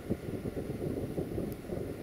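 Low rumble of a train moving through a railway station, easing slightly, mixed with wind buffeting the microphone.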